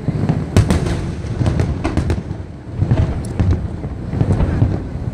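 Aerial fireworks shells bursting in quick, irregular succession: sharp bangs and crackles over a continuous low rumble of booms. The loudest bang comes about half a second in.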